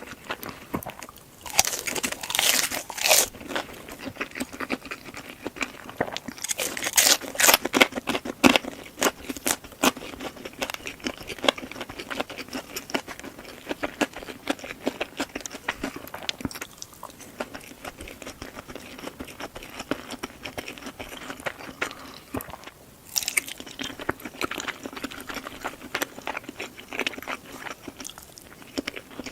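A person chewing and crunching food, with louder bursts of crisp crunching about two, seven and twenty-three seconds in.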